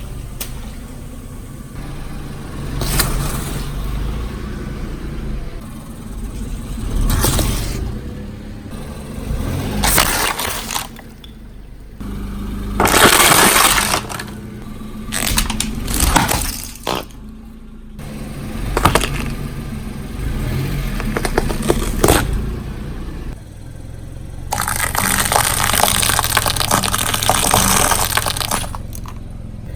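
A car tyre rolling over and crushing objects: several sudden crunches and cracks, with the car's engine running low underneath and a longer hissing burst near the end.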